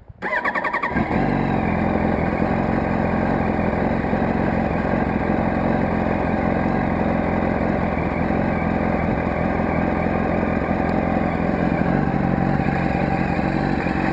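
Yamaha R1 inline-four motorcycle engine starting, catching within the first second and settling into a steady idle.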